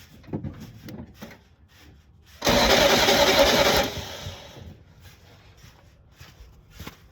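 1970 Volkswagen Beetle's air-cooled flat-four engine is cranked over on the starter for about a second and a half, starting about two seconds in, and does not fire. This is a compression test, with the spark plug out of the number 2 cylinder and a compression gauge screwed in its place.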